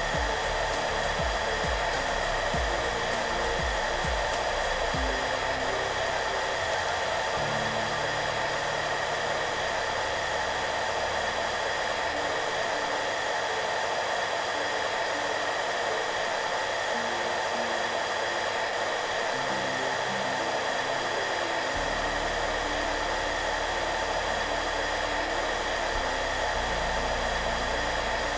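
Hair dryer running steadily, a constant airy whoosh with a faint whine, over soft background music with slow low notes.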